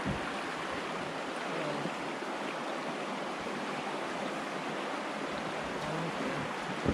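Steady rushing of river water over shoals, an even hiss, with a brief low thump near the end.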